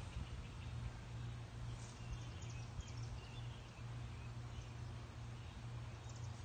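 Steady low hum with scattered high bird chirps over it, all faint.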